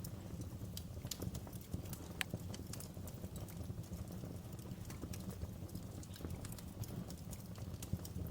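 Wood fire burning in a fireplace: a steady low rumble of the flames with irregular crackles and pops, one sharper pop about two seconds in.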